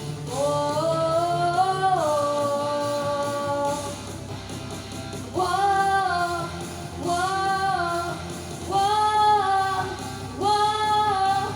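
A young girl singing long held notes in a melodic line over instrumental accompaniment: one long note rising into a hold of about four seconds, then four shorter phrases.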